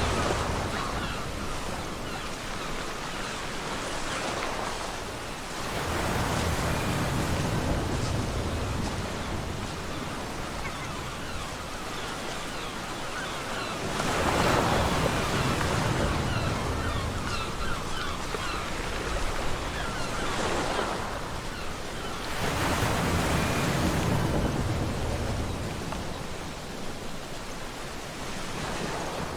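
Ocean surf breaking on a beach, the wash swelling and falling back about four times, each break with a low rumble beneath it.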